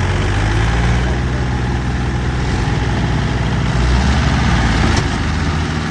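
Tractor diesel engine running steadily under load while trying to move a loaded trolley, its low tone shifting slightly about four seconds in.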